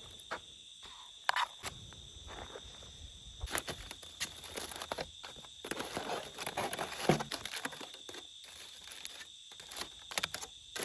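A steady high insect trill, like crickets, with scattered clicks and a few seconds of rustling and clattering from things being handled close by.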